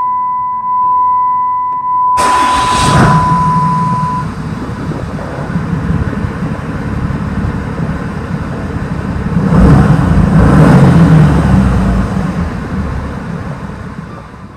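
A steady high beep over keyboard notes, then about two seconds in a motor vehicle's engine comes in abruptly and runs loudly, swelling again around ten seconds in before fading out near the end.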